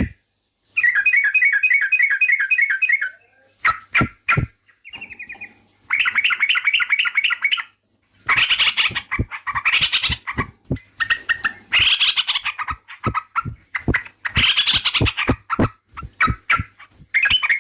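Yellow-vented bulbul (trucukan) singing in loud bursts of rapid, bubbly repeated notes. From about halfway on, the phrases come denser and choppier, broken by sharp clicking notes.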